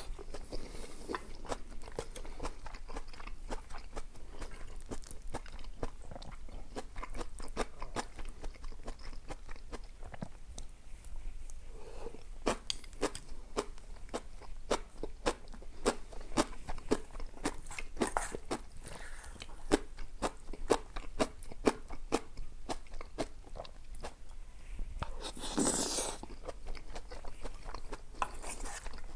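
Close-miked eating: a person chewing and biting food, with a steady run of crisp, wet, irregular crunching clicks. A brief louder rushing sound comes near the end.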